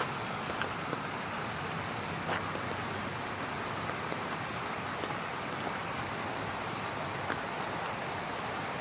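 Steady rush of running runoff water mixed with falling rain, with a few faint ticks of drops scattered through it.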